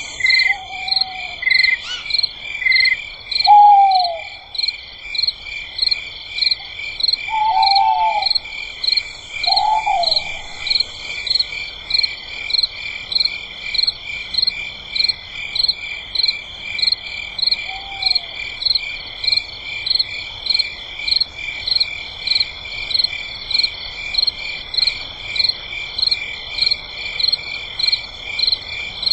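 Night chorus of frogs and insects: one call repeats evenly about one and a half times a second over a steady high trilling. A few short, arched lower calls stand out in the first ten seconds and once near the middle.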